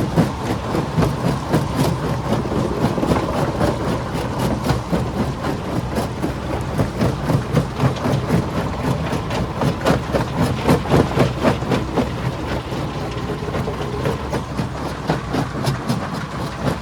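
Stone crusher running: a steady heavy machine hum under a dense, irregular stream of knocks and cracks as rock is broken.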